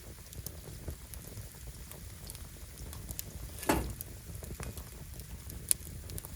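Firewood burning: a steady low rumble of flames with scattered crackles. There is one loud pop a little over halfway through and a sharp snap near the end.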